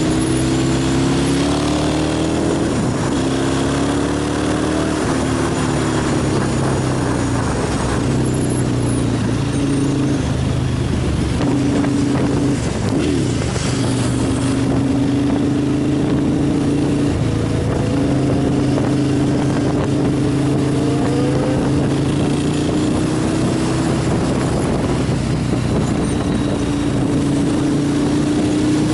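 Motorcycle engine running under way, holding a steady note that drops and rises with the throttle and climbs as it accelerates about two-thirds of the way through, over a constant hiss.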